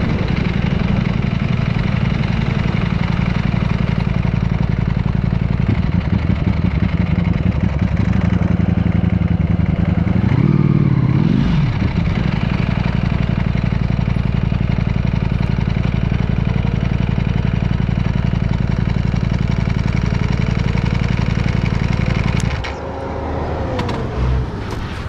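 Ducati V4 motorcycle engine running steadily under way, with one swell of revs that rises and falls about eleven seconds in. Near the end the engine note drops lower and quieter, and a few sharp clicks follow.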